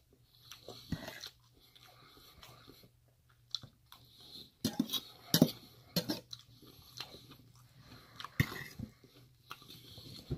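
Close-up chewing of a mouthful of curry with tofu, rice and vegetables: wet mouth clicks and soft crunches, with a run of louder sharp clicks and crunches around the middle and another near the end.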